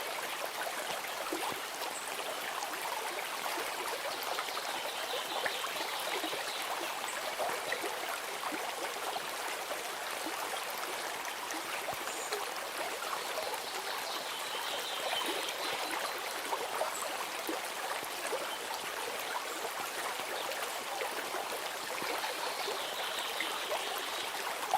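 A stream's running water trickling and babbling steadily.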